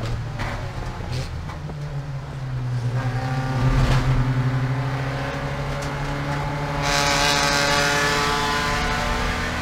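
Porsche 944 Spec race car's four-cylinder engine running hard under load, heard from inside the car, getting louder about three to four seconds in. From about seven seconds a rushing noise joins it.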